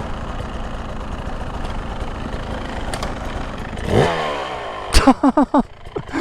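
Beta 200 two-stroke dirt bike engine running steadily, then revving up and dropping back about four seconds in. A sharp knock follows, then several short, loud bursts near the end.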